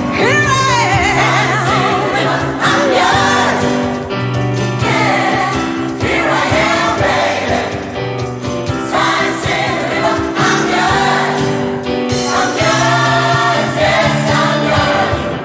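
Gospel mass choir singing in harmony over steady low notes, with one voice swooping sharply upward at the start.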